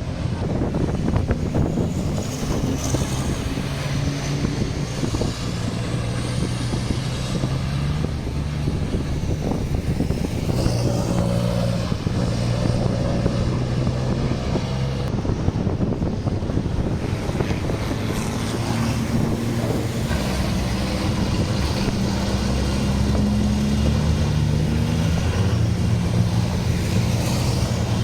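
Heavy truck engines running, their pitch shifting up and down every few seconds as they rev, with wind buffeting the microphone.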